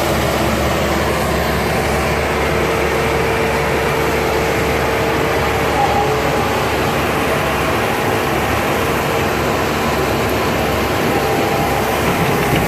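Stump grinder running, a loud steady machine noise with a faint steady hum under it.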